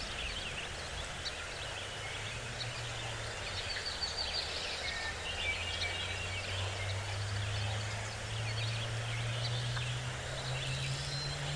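Forest birds chirping and trilling, many short overlapping calls, over a low steady hum that slowly rises in pitch.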